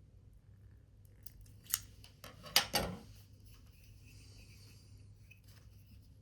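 Scissors snipping paper: a few sharp cuts between about one and a half and three seconds in, the loudest near the middle, then only faint handling.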